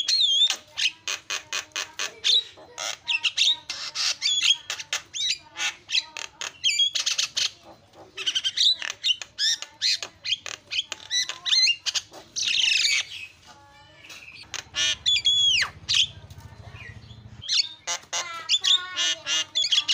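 Javan myna singing: fast runs of clicking, chattering notes mixed with gliding whistles and harsh squawks, broken by a few short pauses.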